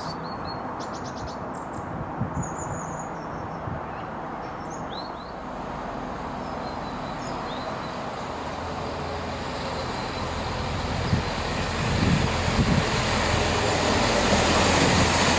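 Great Western Railway diesel multiple unit approaching and running past along the platform: wheel and rail noise with a low engine hum, growing steadily louder until the carriages are alongside near the end. Birds chirp now and then in the first half.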